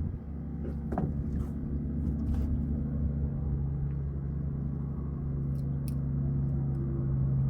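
A motor running steadily with a low, even hum, with a few light clicks and knocks.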